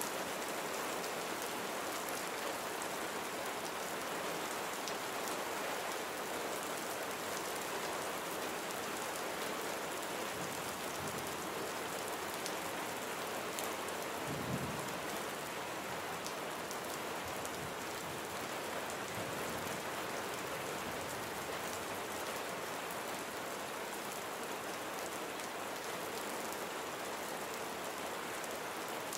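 Steady rain falling and pattering on surfaces, with one brief low thump about halfway through.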